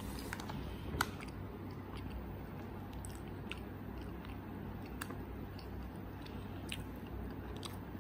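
A person chewing a mouthful of soft packaged croissant, with scattered small clicks over a steady low hum; the sharpest click comes about a second in.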